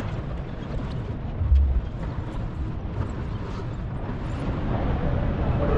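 Outdoor city traffic rumble with a low thump about a second and a half in; the traffic grows a little louder near the end.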